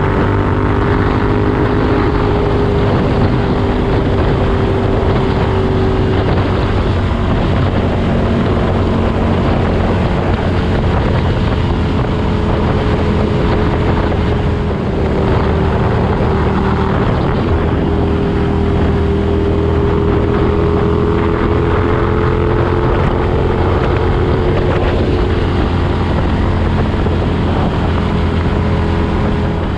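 Ducati Desert Sled's 803 cc air-cooled L-twin running through a Competition Werkes aftermarket exhaust. The engine note is steady, its pitch drifting gently up and down, with a short dip in level about halfway through.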